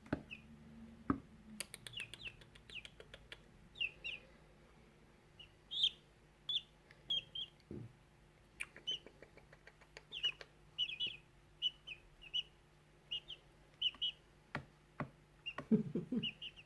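Silkie chicks peeping: many short high chirps, irregular but frequent, with a brief run of quick clicks about two seconds in.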